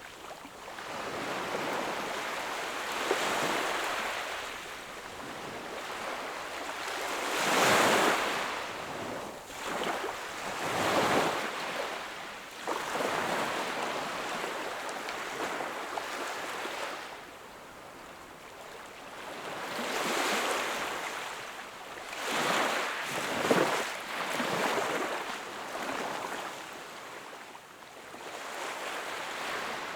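Small sea waves breaking and washing up on a beach, each wash swelling and fading over a few seconds, several in a row at uneven intervals.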